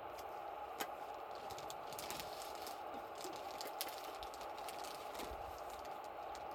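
Wood campfire crackling: scattered, irregular pops and snaps over a steady rushing background.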